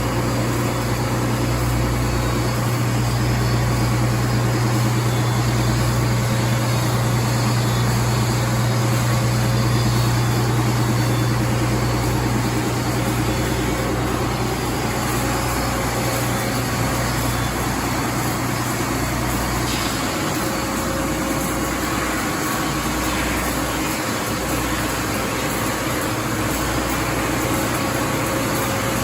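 Sandingmaster SCSB-2 900 dual-head wide belt sander running: a loud, steady electric machine hum with a strong low drone and an even wash of noise over it.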